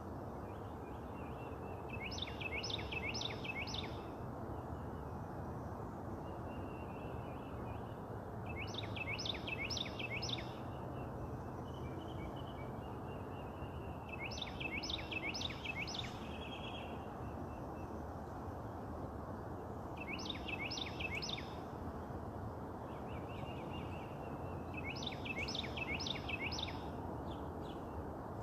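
A songbird singing a repeated phrase of about four quick down-slurred whistles, roughly every six seconds, with a softer trill from another bird between the phrases, over a steady low background rumble.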